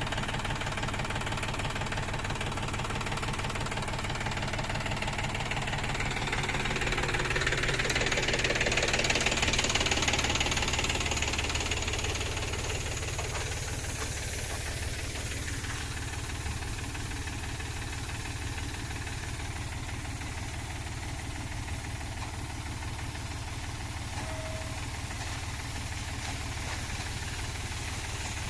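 Kubota combine harvester's diesel engine running steadily, growing louder with a rushing noise for a few seconds near the middle before settling back.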